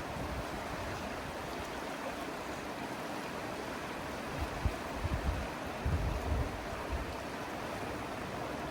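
River water flowing with a steady rushing hiss. A few brief low thumps come a little past the middle.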